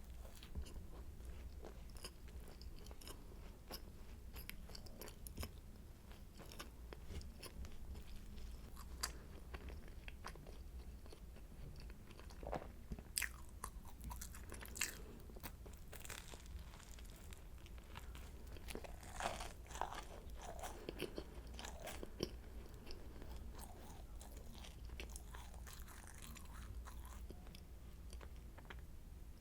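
Close-miked eating of a croissant: flaky pastry crackling and crunching in bites, with soft chewing between, the crackles thickest in the middle of the stretch.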